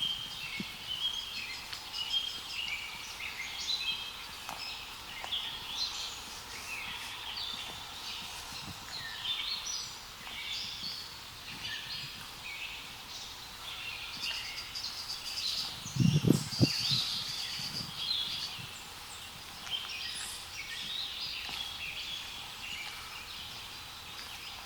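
Several birds singing at once, a busy chorus of short high chirps and trills that never stops. About two-thirds of the way through, a few low thuds are the loudest sound.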